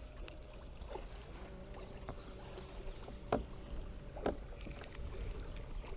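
Quiet on-the-water ambience from a fishing kayak: a steady low rumble with a faint steady hum, broken by about five sharp clicks or knocks spread a second or so apart.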